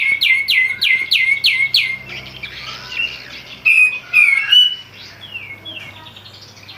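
Kapas tembak songbird calling loudly. It opens with a quick run of six sharp notes, each falling in pitch, about three a second, then breaks into a mix of varied chirps and short whistles that grow quieter toward the end.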